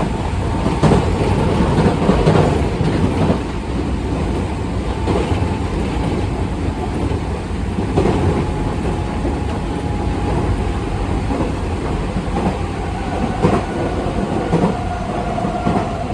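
Nankai Koya Line electric train running, heard from on board: a steady rumble with wheels clicking over rail joints now and then, and a faint steady whine that drifts slightly lower in pitch.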